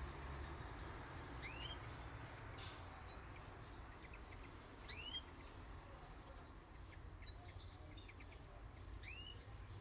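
Aviary songbirds (canaries and wild birds) calling: three clear rising chirps about three and a half seconds apart, with a few fainter short chirps between them, over a low steady rumble.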